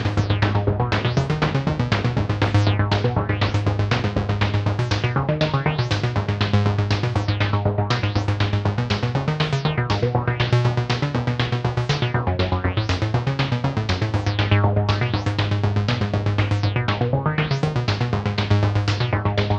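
Moog DFAM analog drum synthesizer playing a fast, steady sequenced percussion pattern, with a Mother-32 analog synth bass line under it. The tone brightens and darkens in waves every second or two, like a filter opening and closing.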